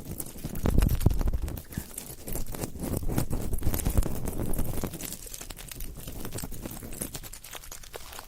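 Close-miked ASMR sounds: a dense run of quick clicks, taps and scratches with low thumps, thinning out and getting quieter after about five seconds.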